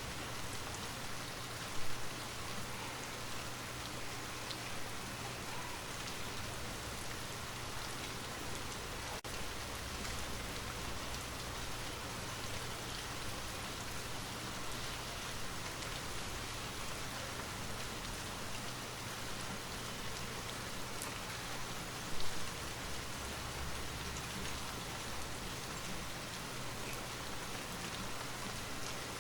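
Steady rain falling and pattering on surfaces, an even hiss of drops that briefly gets louder twice, about two seconds in and again about two-thirds of the way through.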